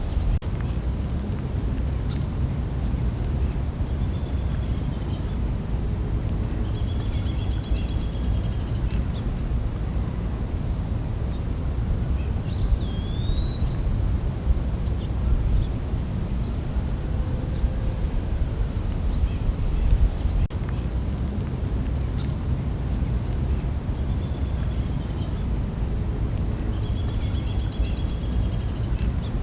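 Night forest chorus of insects: a steady high-pitched drone, with crickets chirping in quick, even trains of pulses. Short arching bird calls come twice in pairs and once as a single swooping call, over a steady low rumble.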